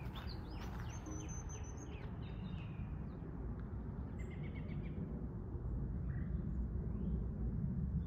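Small birds chirping and calling over a steady low outdoor rumble; the calls are thick in the first few seconds, then thin out to a short trill and the odd chirp.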